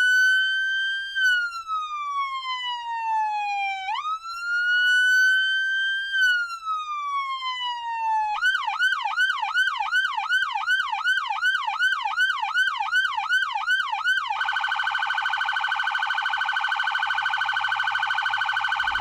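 Police car electronic siren: two slow wails rising and falling over about four seconds each, then a fast yelp of about three sweeps a second, then a very rapid warble at a steady pitch for the last few seconds.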